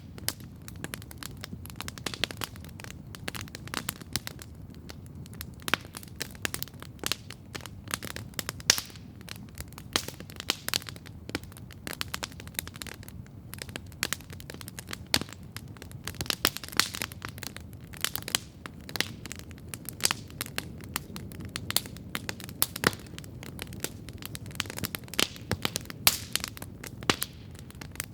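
Wood campfire crackling steadily, with many irregular sharp snaps and pops over a low, steady rumble.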